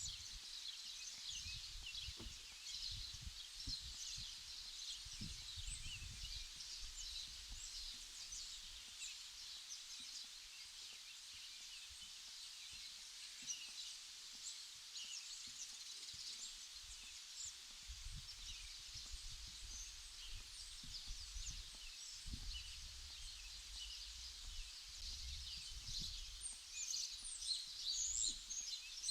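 Outdoor ambience of many small birds chirping, a dense busy chatter that grows louder near the end, with wind rumbling on the microphone in irregular gusts.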